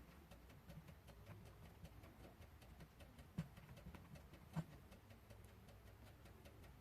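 Near silence, with faint light ticks and two soft taps about a second apart as a baked polymer clay texture mat is pressed into soft clay.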